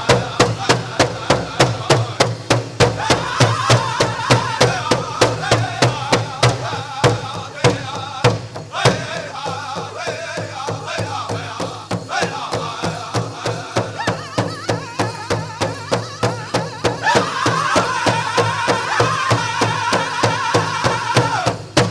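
Powwow drum group playing a chicken dance song: a big drum struck in a fast, steady beat with male singers' voices over it. The drumbeats thin out briefly about eight seconds in, then pick up again.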